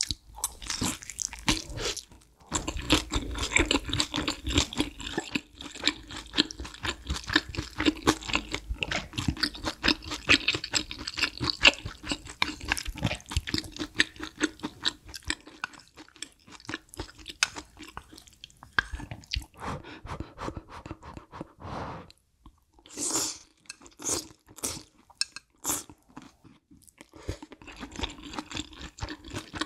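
Close-miked eating: biting into and chewing a giant shrimp dumpling, then eating spicy ramyun noodles, a dense run of wet chewing clicks and crunches. The chewing thins out after the middle; after a brief pause there are a few sharp mouth clicks, then lighter chewing.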